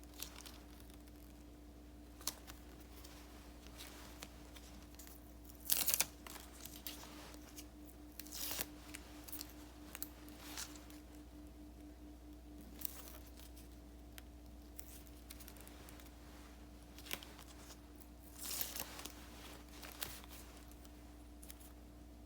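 Paper crafting at a desk: scattered short scratchy bursts of paper being cut with scissors, peeled and handled, with a few light clicks. The loudest come about six seconds in and again near the end. A faint steady hum runs underneath.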